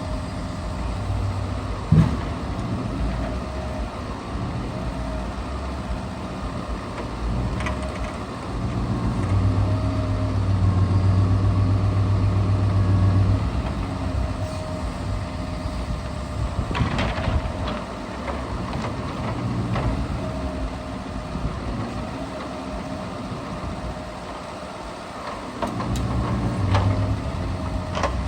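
Scania R650 timber truck's V8 diesel engine running under varying load, rising in speed for stretches, with a steady whine over it. Short knocks and clunks break in now and then, the sharpest about two seconds in.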